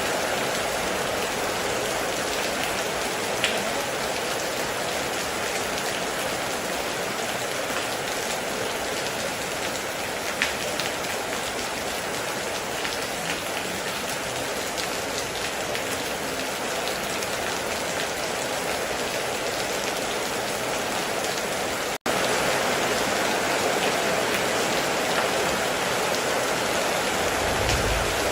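Heavy rain falling steadily on a metal roof, with a few faint drop ticks. About three quarters of the way through there is a momentary break, after which the rain is slightly louder, and a short low rumble comes near the end.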